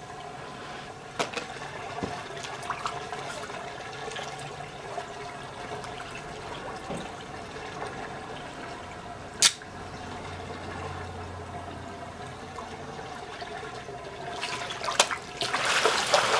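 Swimming pool water trickling and lapping steadily, with one sharp click a little past halfway. Near the end a louder rush of splashing water rises and keeps going.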